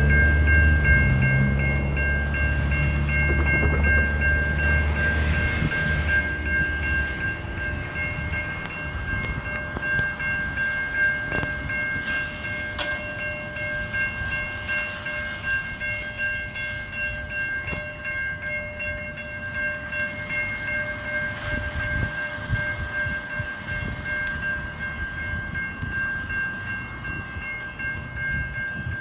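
Train rumbling through the level crossing, loud at first and fading over the first several seconds as it moves away. A level crossing warning bell rings steadily throughout, a high, unbroken multi-tone ringing.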